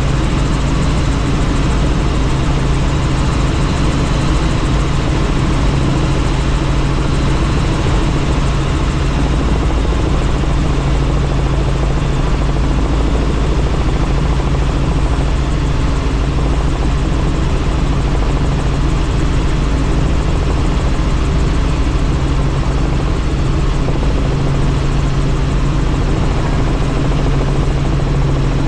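Helicopter in cruise flight heard from on board: a steady, loud drone of engine and rotor with a constant rush of air over it, unchanging throughout.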